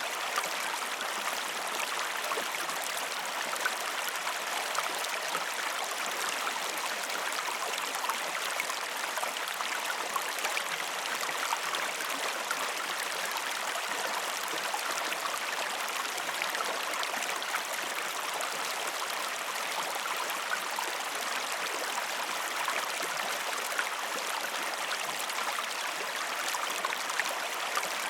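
Waterfall: a steady, even rush of falling water over rocks, with small splashes and trickles throughout.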